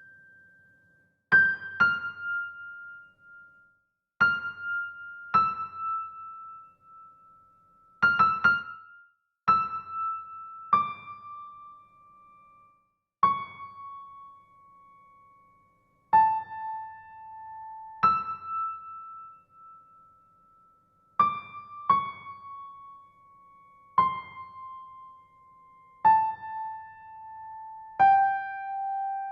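A slow solo piano melody of single notes, one every one to three seconds, each left to ring and fade before the next. The line steps gradually downward in pitch.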